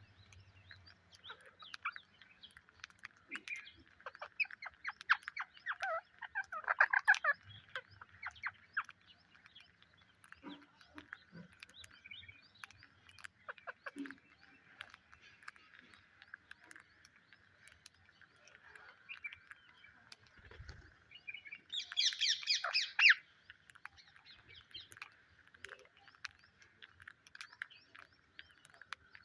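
Psittacula parrots chirping and calling in short bursts over a steady background chorus, with a loud run of harsh calls about 22 seconds in.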